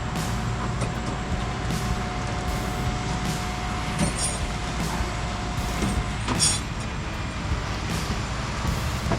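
A tow truck's engine running steadily, with a thin steady whine that cuts off about six seconds in. Two short, sharp clicks come around four and six seconds in.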